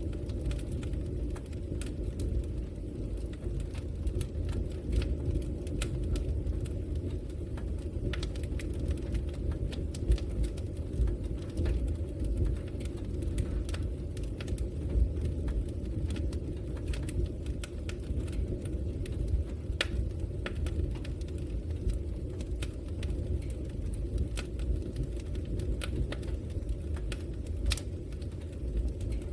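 Logs burning in a fireplace: a steady low rumble of the fire with scattered sharp crackles and pops, a couple of them louder.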